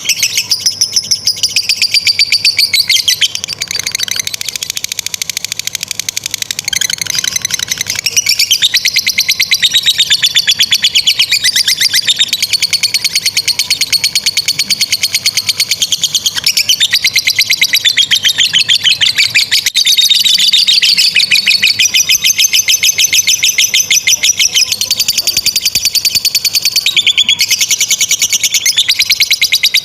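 Lovebird singing a long 'ngekek': a shrill, rapid chatter of fast-repeated notes kept up almost without a break, shifting phrase a few times along the way.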